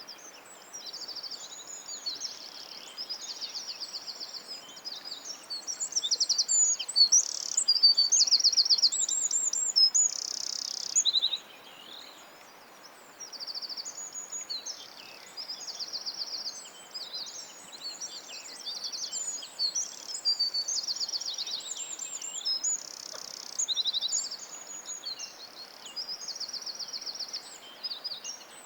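Songbirds singing: fast high trills and chirping phrases repeated one after another, loudest about a third of the way in, over a faint steady hiss.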